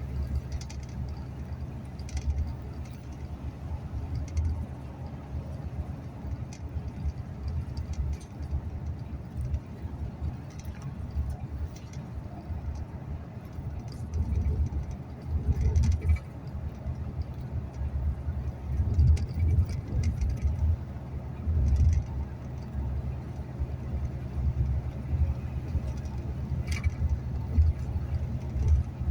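Inside a moving bus: a steady low rumble of engine and road noise, uneven in loudness, with scattered light rattles and clicks.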